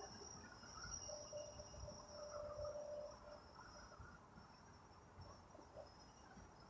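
Faint, steady high-pitched insect trilling over a low background rumble, with a brief mid-pitched hum between about one and three seconds in.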